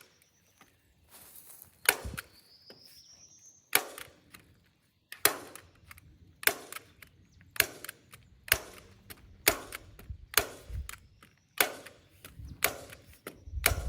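Staple gun firing heavy-duty T50 staples through plastic sheeting into a wooden frame: about a dozen sharp snaps, roughly one a second.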